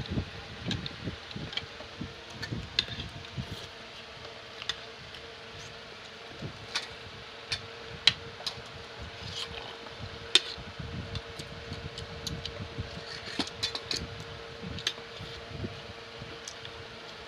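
Eating at a table: spoons and forks clicking now and then against plates and bowls, two sharper clinks about eight and ten seconds in, over a steady hum.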